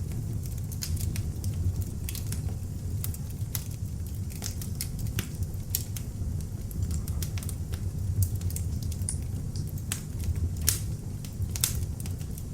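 Beech-wood log fire burning in an open fireplace: a steady low rumble of flames with frequent sharp crackles and pops, a couple of louder pops near the end.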